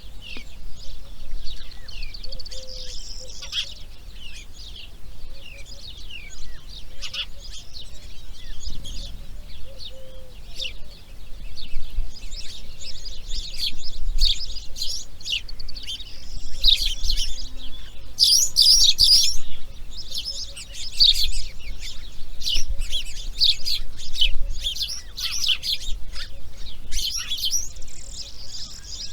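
Birds chirping and calling without a break, a dense mix of short high chirps and sweeping notes, busier and louder in the second half.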